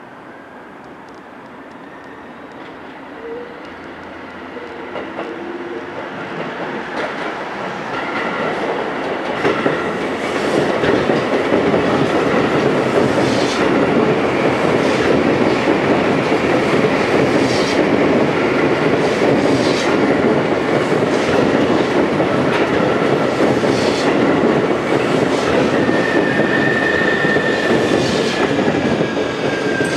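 Sotetsu electric multiple unit train approaching and passing close by, growing louder over the first ten seconds into a steady rumble with repeated clicking of the wheels over rail joints and points. A thin, slightly falling wheel squeal comes in near the end.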